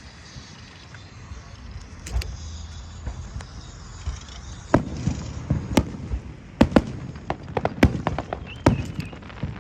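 Fireworks going off: sharp bangs, a few scattered at first, then coming thick and fast in a rapid string over the second half.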